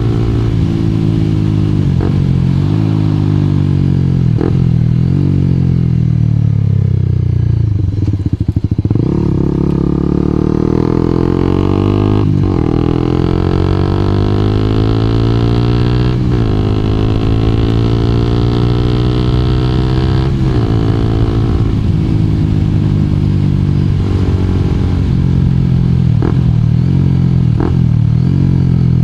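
2012 Honda CBR250R's single-cylinder engine pulling hard, the note climbing in pitch and dropping sharply at each gear change, several shifts in a row, with a few quicker changes near the end.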